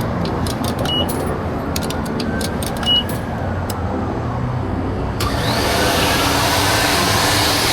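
Coin-operated car wash vacuum running with a steady hum, two short beeps about a second and three seconds in, then a sudden loud rush of air about five seconds in as the hose nozzle sucks.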